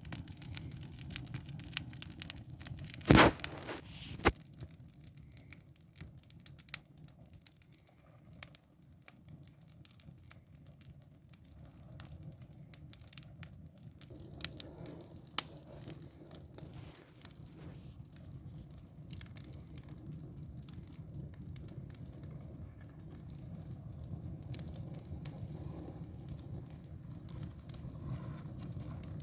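Fire crackling in a fireplace: scattered small snaps and pops over a low steady hum, with one loud crack about three seconds in.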